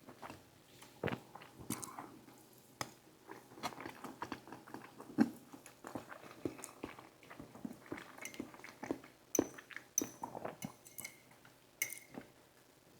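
Close-miked eating sounds: chewing and biting of food, with irregular wet mouth sounds and a few sharp clicks.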